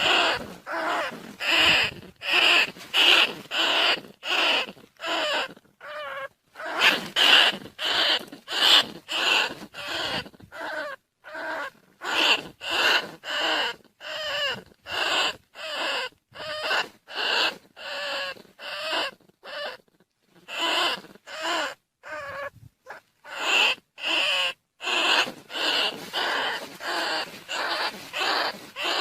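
Rats squeaking in a fast run of short, sharp calls, about two a second with brief gaps: a rat decoy call used to lure rice-field rats and bandicoot rats.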